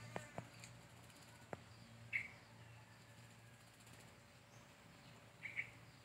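Faint short bird chirps, once about two seconds in and a quick double chirp near the end, with a few soft clicks in the first second and a half over a low steady hum.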